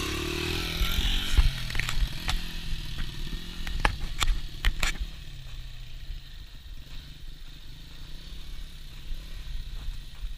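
Dirt bike engine revving up as the rider pulls a wheelie, then running lower. Several sharp knocks or clatters come between about a second and a half and five seconds in.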